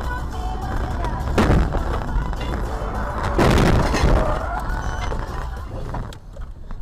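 Music playing inside a car, broken by a sharp bang about a second and a half in and then a louder, longer crunching impact around three and a half seconds in: a vehicle collision heard from inside the car.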